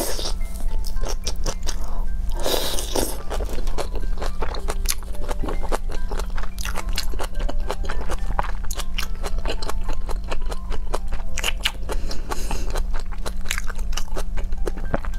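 Close-miked chewing of a mouthful of grilled, sauced cabbage from a skewer: a dense run of small crunches and mouth clicks that goes on without a pause, over a steady low hum.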